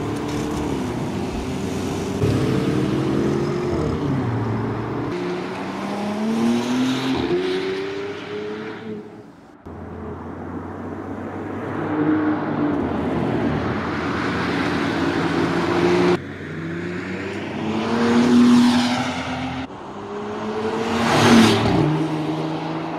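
Porsche Cayenne E-Hybrid's six-cylinder petrol engine accelerating, its pitch climbing through each gear and dropping at the shifts, in several spliced takes. Near the end the SUV passes by, loudest as it goes past.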